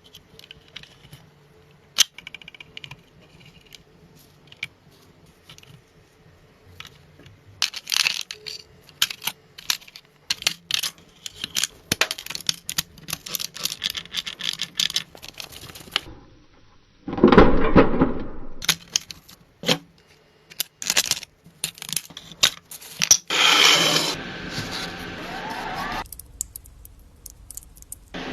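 A string of hand-work noises on a car being restored: sharp clicks, knocks, scrapes and tearing. There is a louder dense burst of noise about two thirds of the way through, then a hissing stretch near the end.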